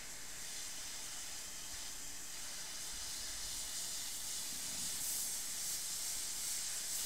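Draper side-feed trigger airbrush spraying paint: a steady hiss of air through its 0.5 mm nozzle at 15 psi, growing louder about five seconds in.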